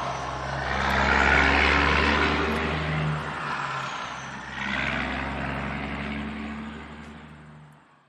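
Vehicle engine running with a low steady hum and swells of rushing noise that rise and fall, fading away over the last couple of seconds.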